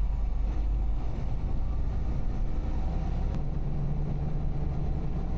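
Semi truck's engine drone and road noise heard from inside the cab as it drives. The low engine drone strengthens about three seconds in.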